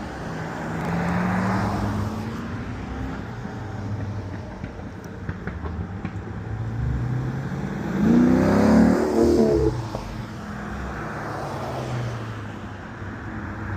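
Car engines running, with one rising in pitch as it revs over the first few seconds and a louder burst about eight seconds in.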